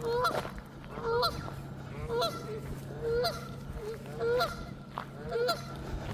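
A goose honking over and over, one short call about every second, agitated at a dog close by.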